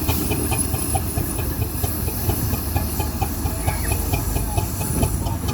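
Steam engine running, with steam hissing, a steady low rumble and a fast, even ticking of about four to five strokes a second.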